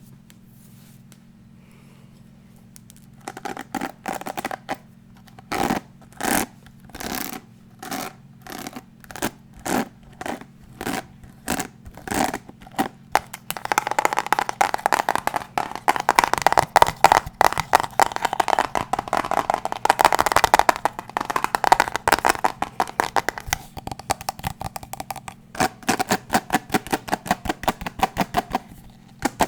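Close-up ASMR tapping and scratching on an unidentified object. It starts about three seconds in as separate strokes, about two a second, then turns into a fast, dense run of tapping and scratching, and ends with a quick run of light taps.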